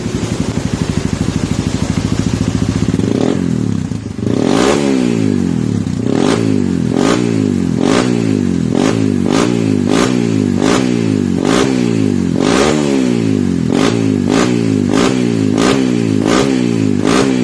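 Honda CRF150L's single-cylinder four-stroke engine running through a Norifumi TORC stainless aftermarket exhaust: steady idle for about three seconds, then revved in more than a dozen quick throttle blips, each rising in pitch and dropping back.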